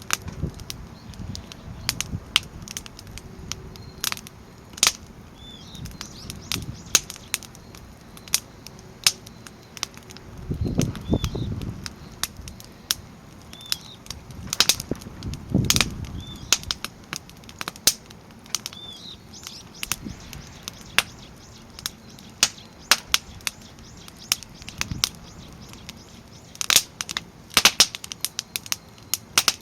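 Firewood burning in a crisscross stack, crackling with sharp, irregular pops throughout. Two low rushing swells come about ten and fifteen seconds in.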